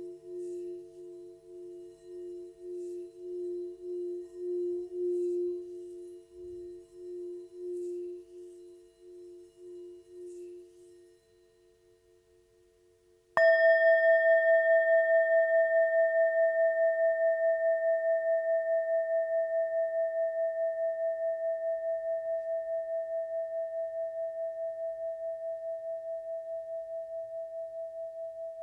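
Tibetan singing bowls. A lower bowl's ringing tone, wavering about twice a second, dies away over the first eleven seconds; about halfway through, after a brief hush, a higher-pitched bowl is struck and rings on with its overtones, fading slowly.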